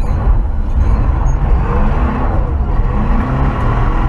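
1968 Chevrolet C20 pickup's V8, fitted with a new intake and Edelbrock carburetor, running under way and heard from inside the cab over a steady low road rumble from driving on gravel. The engine's pitch rises and falls a couple of times in the second half.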